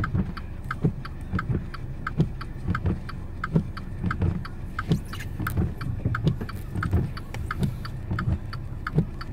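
Car engine running inside the cabin, with a very regular quick ticking, about three ticks a second, and soft thumps under it about every 0.7 s.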